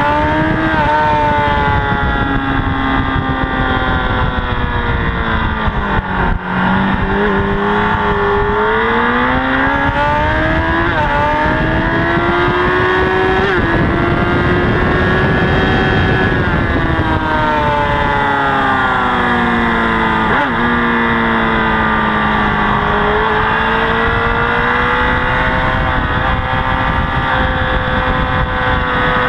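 Honda CBR1000RR inline-four engine running hard, heard from the bike-mounted camera. Its pitch climbs through long stretches and drops sharply about six seconds in and again about twenty seconds in, as the throttle closes and gears change, over a steady rush of wind.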